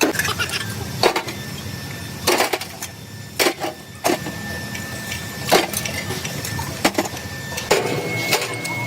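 About ten sharp metal knocks and clanks at irregular intervals over the steady low hum of running workshop machinery.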